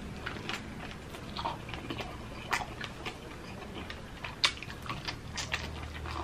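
Close-miked chewing of Jollibee Chickenjoy fried chicken: irregular sharp crunches and mouth clicks.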